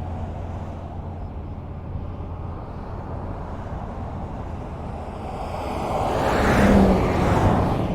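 Highway traffic: a steady tyre and engine rumble, with one vehicle passing close, its sound swelling to a peak about seven seconds in and then fading.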